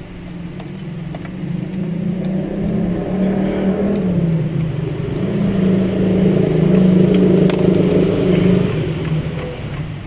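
A motor vehicle engine running, its pitch wavering as it is revved, growing louder over several seconds and easing off near the end.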